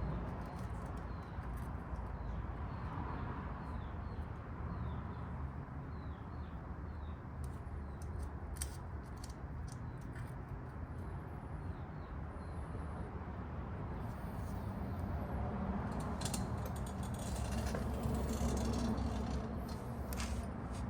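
Scattered light clicks and handling noise of rubber carburetor intake boots and metal parts being worked by hand, over a steady low hum. Small repeated chirps are heard through the first half.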